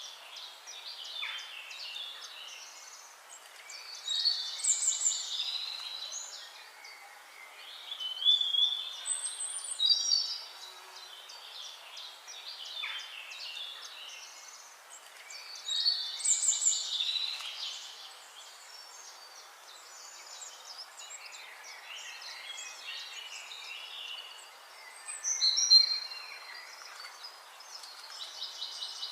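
Songbirds singing and chirping, with louder bursts of song every few seconds over a faint steady hiss.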